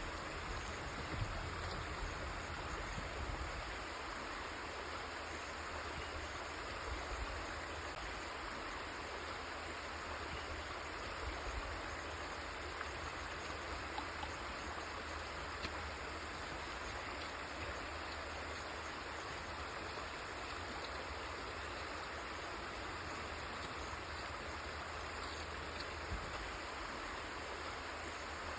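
River water flowing steadily, a continuous even rush of moving water with small splashes here and there.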